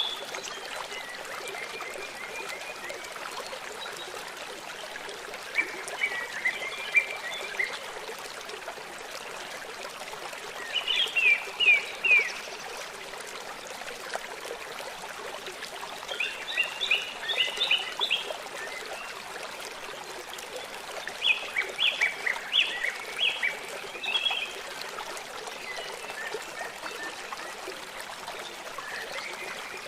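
A songbird singing short phrases of quick, falling notes, one phrase about every five seconds, over the steady rush of a stream.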